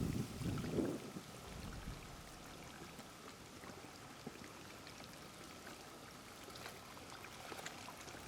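Faint, steady noise of wind and lapping water at the waterside, with a few louder short noises in the first second.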